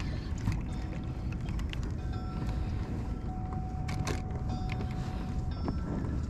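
Steady low rumble of wind and water around the kayak, with a faint thin whine that comes and goes and a few sharp clicks.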